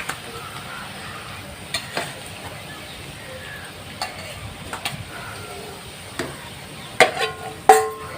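Utensil clinking against a cooking pot as marinated chicken pieces go into hot water to be half-boiled. Scattered clinks, the two loudest and most ringing near the end, over a steady faint hiss.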